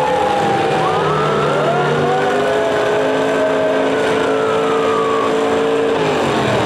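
Several demolition derby cars' engines revving together, their pitches rising, holding and falling and overlapping one another.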